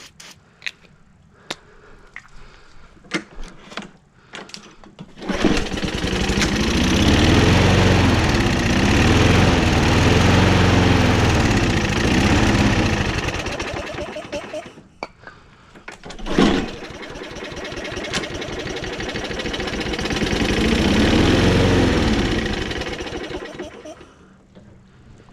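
Toro Recycler push mower's small engine, after a few clicks and knocks, fires and runs for about eight seconds with its speed surging up and down, drops off, catches again with a sharp bang and runs another eight seconds before dying out near the end. It won't keep running on its own.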